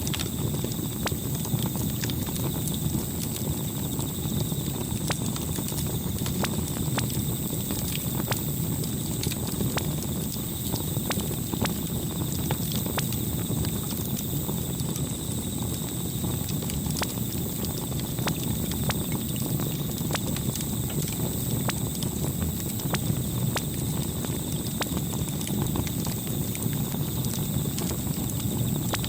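Campfire crackling: frequent, irregular sharp pops and snaps over a steady low noise of burning wood.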